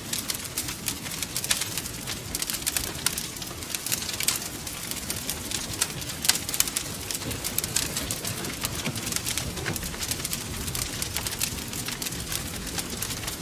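Wood fire crackling in a fireplace: a continual run of sharp pops and snaps over a steady low rumble of the flames.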